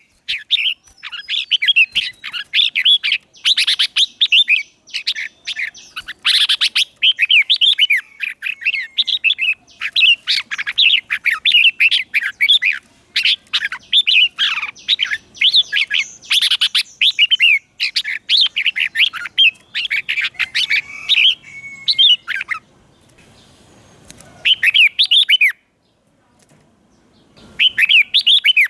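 Red-whiskered bulbul singing: short warbled phrases repeated in quick succession, with a lull of a few seconds near the end before the singing returns.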